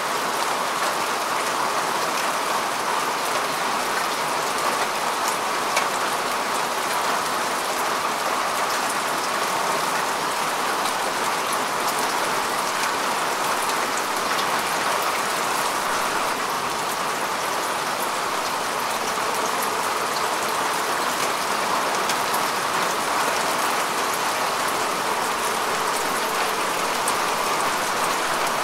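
Steady rain falling on grass and soil, a constant even hiss with fine scattered drop ticks.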